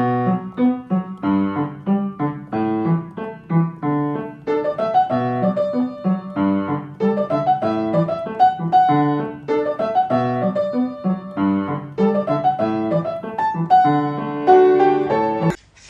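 Solo piano music: a continuous run of struck notes and chords at a moderate pace.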